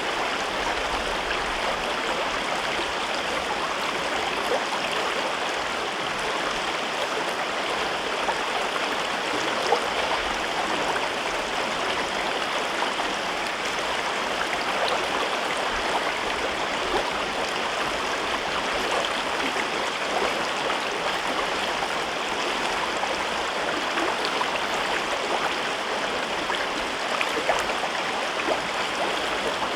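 River water rushing and babbling over rocks in a gorge, a steady, even flow.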